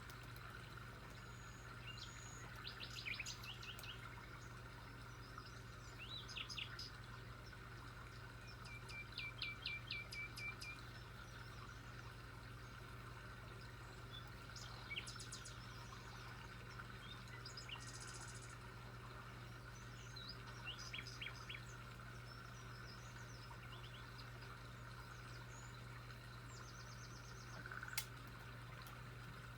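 Wild birds calling and singing in short, scattered phrases of quick high chirps and trills, a phrase every few seconds, over a steady low hum.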